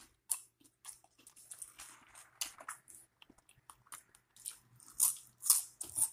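A person chewing and crunching food close to the microphone: a quick run of crisp, crackly crunches and wet chewing, the loudest crunches about five and five and a half seconds in.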